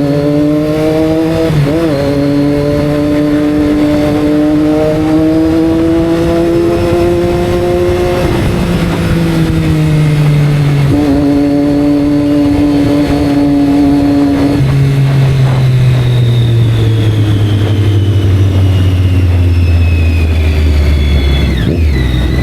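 Sport motorcycle engine running loud under way. Its pitch climbs slowly and breaks at about 8, 11 and 14 seconds in, like gear changes, then falls steadily through the second half as the bike slows.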